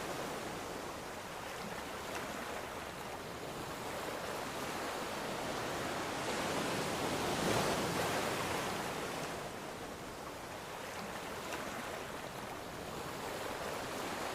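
Ocean waves breaking on a shore, a steady wash of surf that swells to a peak about halfway through and then eases off.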